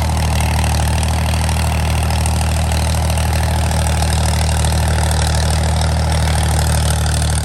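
Farm tractor's diesel engine running at a steady speed, a low even drone that holds without change.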